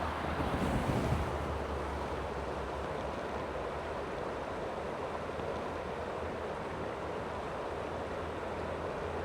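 Steady rush of a flowing creek. A brief low rumble of wind on the microphone near the start.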